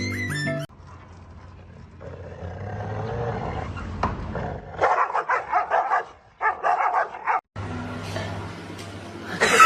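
A dog barking and growling in a quick run of short barks.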